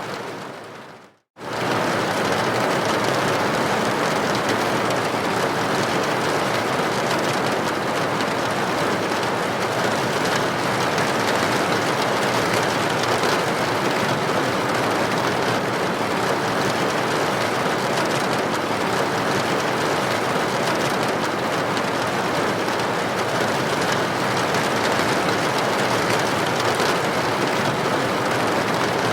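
Rain pattering against a window pane: a steady, even hiss of droplets, cutting out briefly about a second in before resuming.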